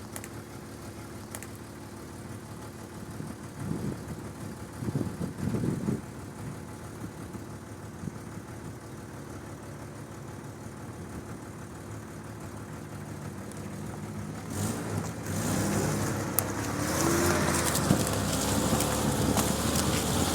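Jeep engine running steadily at low revs off-road, with a few short knocks about four to six seconds in. From about fifteen seconds in it gets louder, the revs rising and wavering as the engine works under load.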